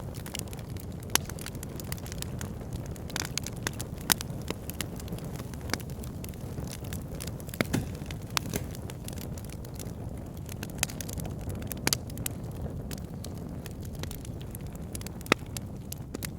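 Backyard fire pit burning: irregular crackles and pops over a steady low rush, with a few louder snaps scattered through.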